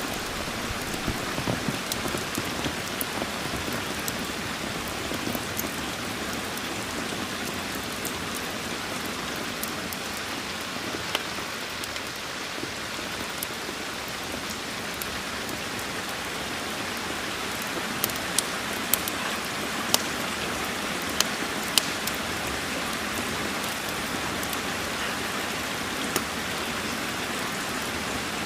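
Steady rain hiss, with occasional sharp crackles of a wood fire, several close together about two-thirds of the way through.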